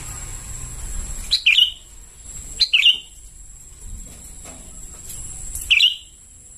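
Young sooty-headed bulbul calling: three short, sharp calls, the first two about a second apart and the third near the end, over a faint steady high-pitched tone.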